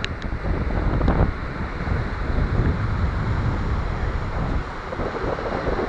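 Wind buffeting the microphone, with the rush of ocean surf underneath.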